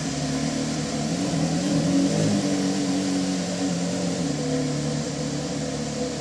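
Porsche Carrera GT's 5.7-litre V10 engine running at idle, given a light rev about a second and a half in. It holds the higher pitch for a couple of seconds, then settles back to idle.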